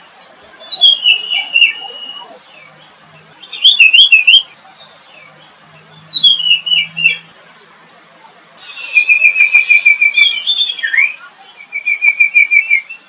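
A songbird singing in short phrases of high chirps and quick trills, with pauses between them. The phrases get busier in the second half, with rapid even trills near the end.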